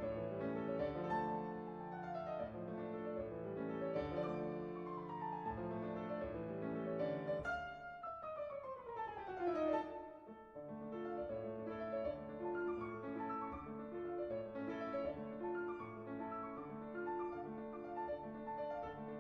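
Background piano music, with runs of falling notes and a long descending run about eight seconds in.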